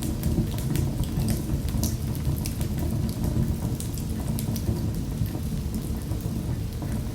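Wood fire crackling in a fireplace: a steady low rumble of the flames with frequent small sharp pops and snaps scattered throughout.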